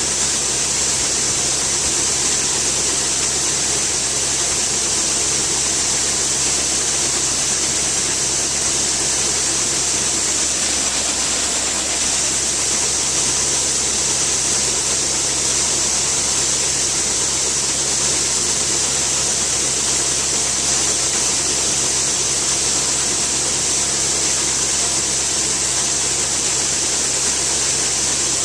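Heavy farm machinery engine running steadily under a constant high hiss, with no change in speed.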